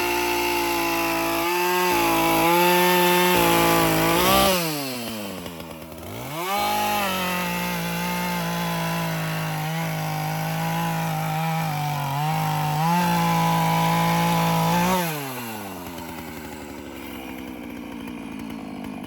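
ZimAni 450 two-stroke chainsaw running at full throttle, cutting wood. The revs drop briefly about four seconds in and climb back, and near the end the throttle is released and the saw settles to a steady idle.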